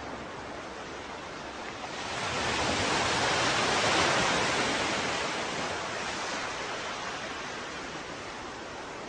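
Ocean surf washing steadily, with one wave swelling about two seconds in, loudest a couple of seconds later, then fading back to the steady wash.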